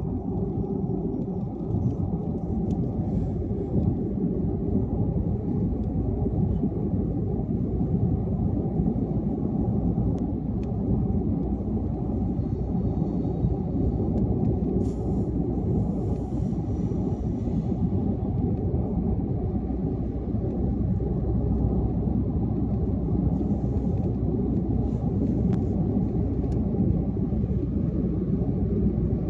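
Steady low rumble of a car driving at highway speed: tyre and road noise with engine hum. Faint brief higher sounds come through about halfway and again near the end.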